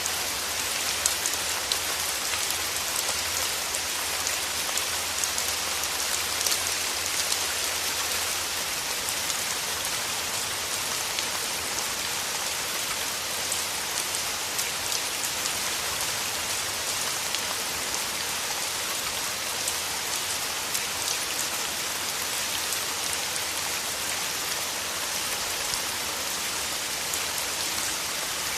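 Steady rain falling through forest trees: a constant hiss of rainfall with many close drop ticks and occasional louder drips on leaves.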